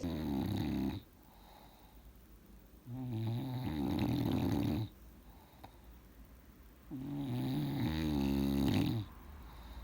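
Bulldog snoring in its sleep: three long snores, each one to two seconds, coming about every four seconds. Such snoring is typical of the breed's short-nosed airway.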